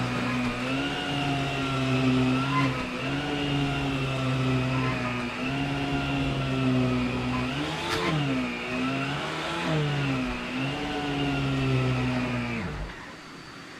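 Electrolux Oxygen canister vacuum running with its power head engaged, a steady motor hum whose pitch sags briefly every second or so as it is worked, with a click about 8 seconds in. Near the end it is switched off and winds down to a stop.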